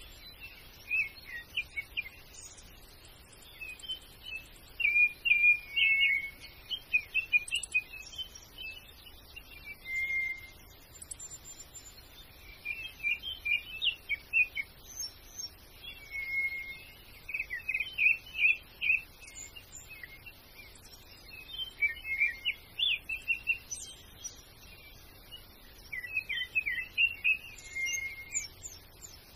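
Small birds chirping and twittering in clusters of quick, high chirps every few seconds.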